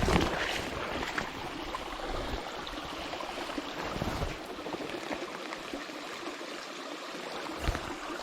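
Steady hiss of rain falling on a flowing river, with the river's current running beneath it and a few faint ticks.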